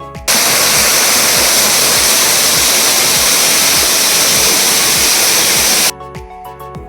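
Loud, steady rushing of a waterfall. It cuts in suddenly just after the start, replacing the background music, and stops abruptly about a second before the end, when the music returns.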